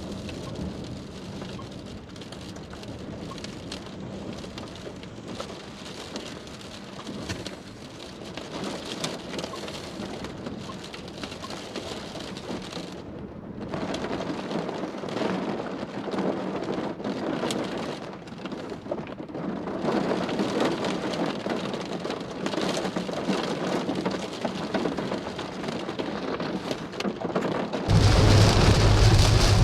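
Rain from a severe thunderstorm beating down steadily, with thunder, growing heavier partway through. Near the end it suddenly gets much louder, with a low steady hum underneath.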